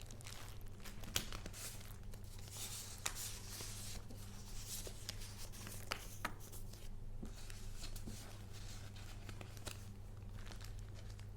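Paper being handled: rustling and crinkling of sheets and paper goods, with a few sharp taps or clicks, over a steady low hum.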